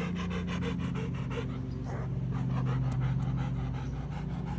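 Dog panting rapidly and evenly, about six breaths a second, winded from running after a ball, over a steady low hum.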